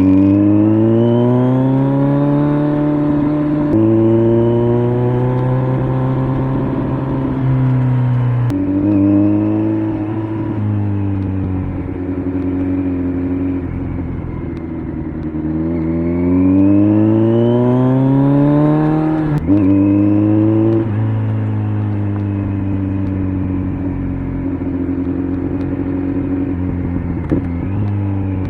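Kawasaki Z900's inline-four engine through an LCI aftermarket muffler, accelerating with rising pitch and changing gear. It climbs near the start with shifts at about 4 s and 8.5 s, then holds or eases off. It climbs again from about 15 s, shifts near 19 s and then rolls off.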